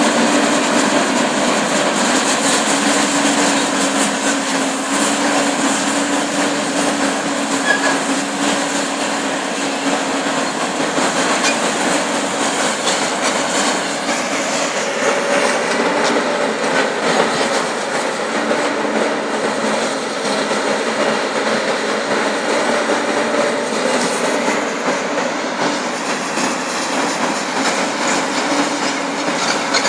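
Steel structure being torn down by heavy demolition machinery: continuous grinding, creaking and squealing of metal, with scattered sharp clanks.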